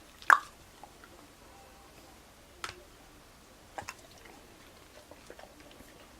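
Dog biting and chewing on a toothbrush during brushing, with a few sharp clicks of teeth on the plastic brush. The loudest click comes just after the start, another about two and a half seconds in, and a quick pair near four seconds, with small ticks between.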